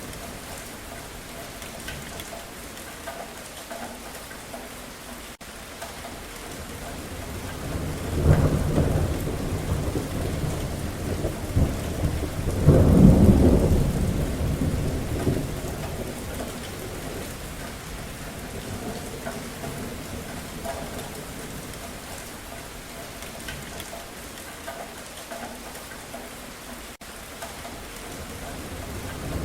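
Steady rain falling, with rolling thunder: a rumble about eight seconds in and a louder, longer peal around thirteen seconds, fading away over the following seconds.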